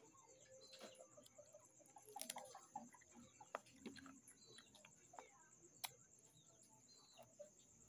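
Faint close-up eating sounds: chewing and crunching of crispy fried pork belly eaten by hand, with scattered sharp clicks and mouth smacks, over a steady high-pitched background hum.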